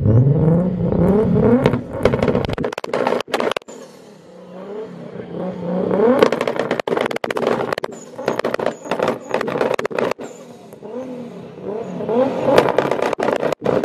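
A tuned car's loud exhaust revved hard in repeated blips, the engine note rising and falling, with rapid crackling and popping cracks from the exhaust between and during the revs.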